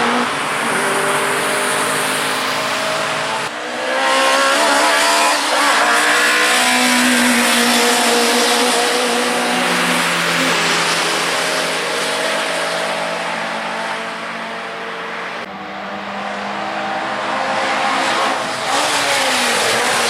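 Ford Lotus Cortina Mk1 race cars' twin-cam four-cylinder engines running hard on track, revving up and down through the gears as they pass. The sound changes abruptly about three and a half seconds in and again about fifteen and a half seconds in.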